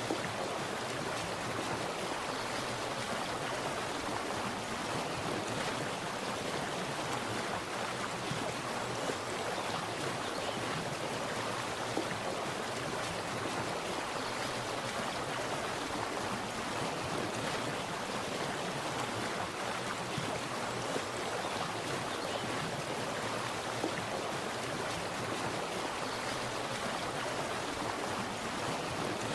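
Water splashing and rushing steadily, like a small stream or cascade.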